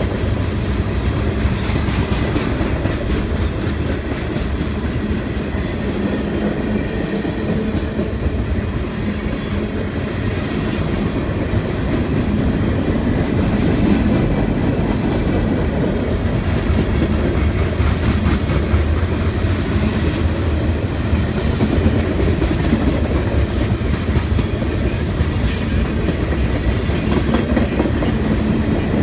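Freight train cars rolling steadily past, their wheels clattering over the rails.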